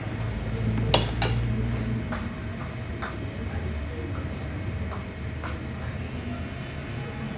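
Hard objects clinking and clicking against each other: two sharp clinks about a second in, then scattered lighter clicks, over a steady low hum.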